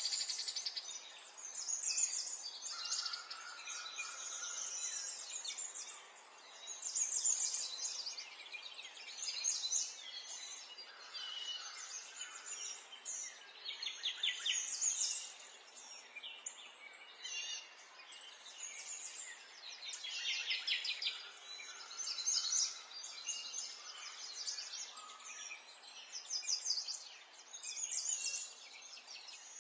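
Several songbirds chirping and trilling over one another in short, overlapping phrases, over a faint steady background of outdoor noise.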